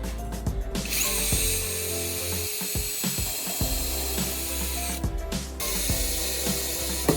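A power tool runs for about four seconds, stops for about half a second, then starts again, over background music with a steady beat.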